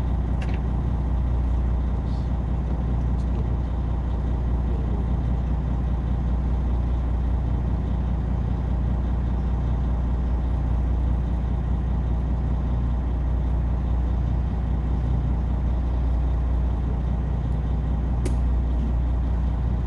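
Boat engine running steadily at low speed, a constant low hum, with a single faint click near the end.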